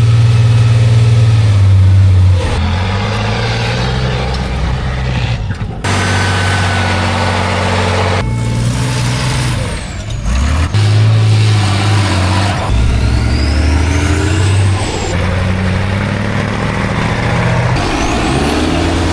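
Heavy truck-trial trucks' diesel engines running hard and revving, in short clips that change abruptly every two to three seconds. A rising whine sounds twice, near the middle and near the end.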